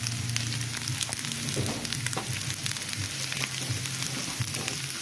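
Palm flowers and onion sizzling in a frying pan, with a steady hiss and frequent small crackles.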